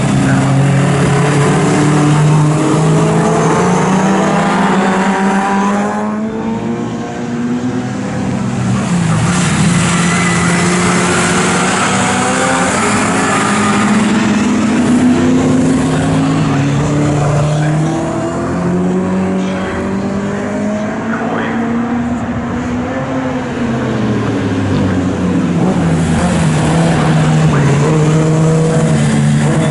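Pre-1966 historic touring car engines at full racing speed. The engine note climbs steadily under acceleration, then drops sharply at gear changes and braking, several times over.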